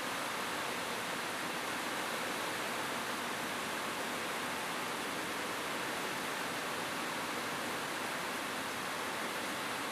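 Steady rain falling on a roof: an even, unbroken hiss with no separate drops or thunder standing out.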